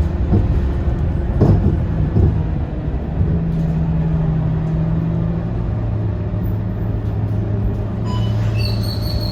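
Scania K230UB city bus's diesel engine and drivetrain running with a steady low drone, with a few knocks and rattles in the first couple of seconds. Near the end a short electronic chime sounds.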